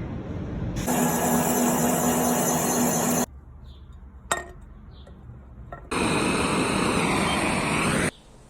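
Metalworking machine tools working an engine cylinder, in two loud stretches of cutting noise that start and stop abruptly. The first carries a steady machine hum. Between them is a quieter gap with a single sharp clink.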